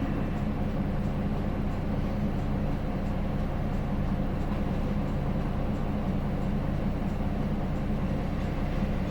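Hino Blue Ribbon City bus's diesel engine idling steadily with the bus standing still, heard from inside the passenger cabin.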